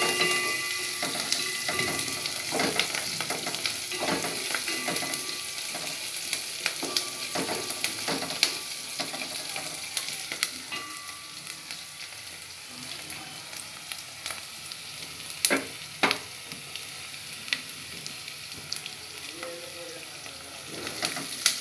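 Sliced onions, garlic and chillies sizzling in hot oil in a metal pot, stirred with a spoon that scrapes and clicks against the pan over a steady frying hiss. Two louder knocks of the spoon come about fifteen and sixteen seconds in.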